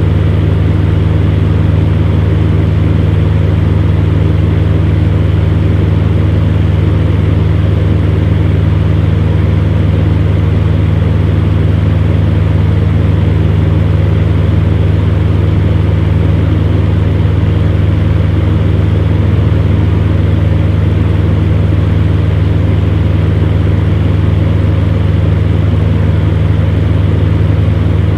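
Electric fan running steadily: a constant low motor hum under an even rush of moving air, with no change in speed.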